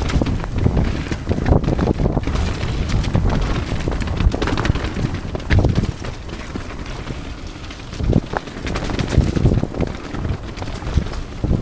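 Wind buffeting the microphone over the rattling and knocking of a mountain bike descending a rough, wet trail. It eases off for a couple of seconds around the middle, then picks up again.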